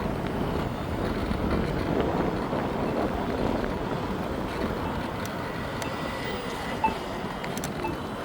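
Steady rolling noise of an electric scooter ride: tyre and road rumble mixed with wind on the microphone, with a faint steady whine in the middle stretch and a short knock about seven seconds in.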